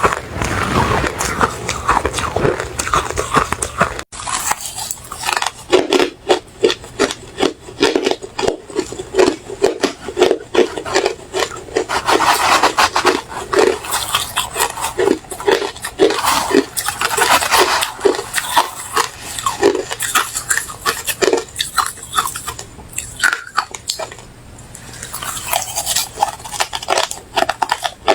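Refrozen crushed ice being bitten and chewed close to the microphone: a rapid, steady run of crisp crunches, broken by a brief cut about four seconds in and a softer stretch near the end.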